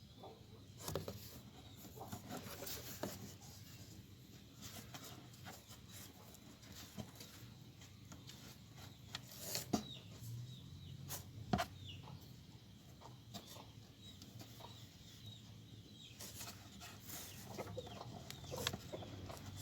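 Birds calling faintly in short clucks and chirps, with scattered sharp clicks and knocks.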